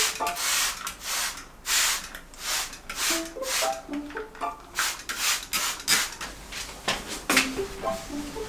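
Repeated scrubbing strokes on a window sill's track, about two a second and uneven, over light background music with short stepping notes.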